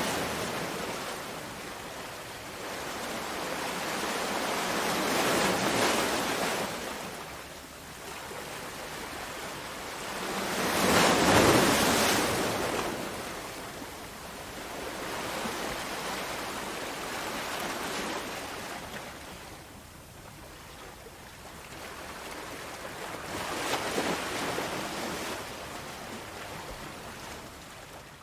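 Sea waves breaking on a shore, the surf rising and falling in swells every few seconds, the strongest wave about eleven seconds in.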